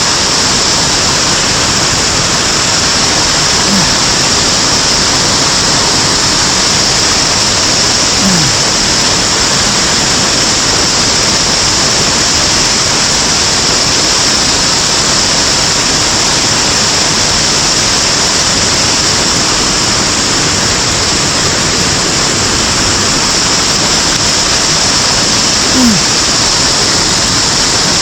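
Loud, steady rush of water from a mountain stream cascade or waterfall close to the microphone. A few brief low sounds slide downward through it, about 4 and 8 seconds in and near the end.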